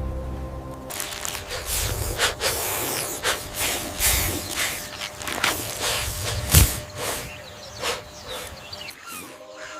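Scuffling and rustling of animals fighting, with irregular sharp thumps, the loudest about six and a half seconds in.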